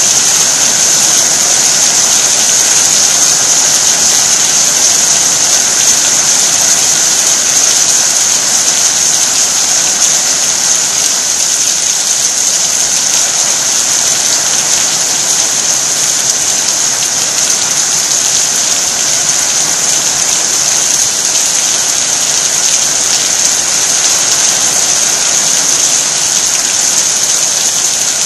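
Heavy rain falling steadily, an even, high hiss without pauses or single drops standing out.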